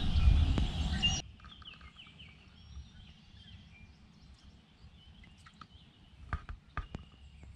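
Faint outdoor ambience with scattered bird chirps and a few soft clicks near the end. A loud rushing noise at the start cuts off abruptly about a second in.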